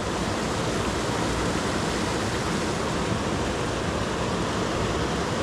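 Steady, unbroken rushing noise at an even level, the kind made by wind or moving water outdoors.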